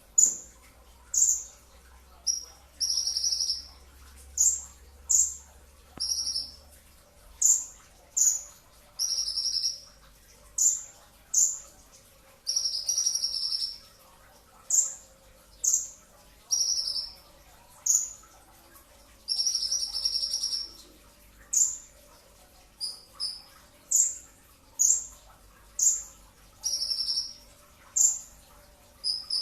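Kolibri ninja (a sunbird) singing the rapid 'two-stroke' shooting song: high, sharp chirps about once a second, alternating with longer trilled bursts lasting up to a second.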